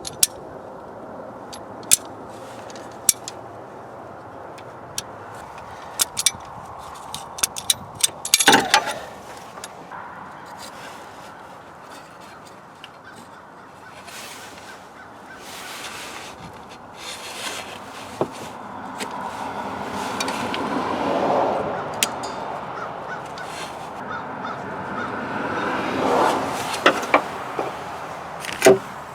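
Hand work on a power steering hose and its fittings: scattered sharp clicks and knocks of tools and parts, a cluster of them about eight seconds in, and two longer stretches of rubbing and scraping in the second half.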